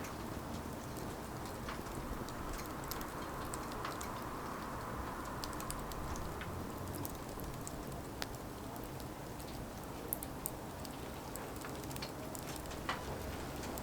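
Firewood burning, a steady hiss with scattered small crackles and pops at irregular intervals.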